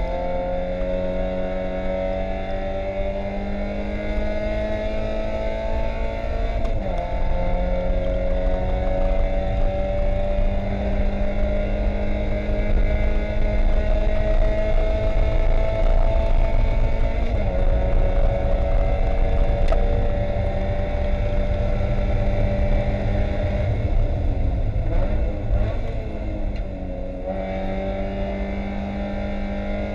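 Inside the cabin, a 1999 Spec Miata's 1.8-litre four-cylinder engine runs at high revs under full throttle, its pitch climbing through the gears with two upshifts where the note drops, about a quarter and about halfway in. Near the end the note wavers and falls as the car brakes and downshifts, then climbs again as it accelerates out of the corner.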